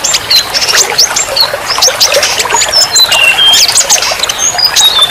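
A dense chorus of small songbirds, many short, rapid chirps and brief whistled notes overlapping one another, over a steady hiss.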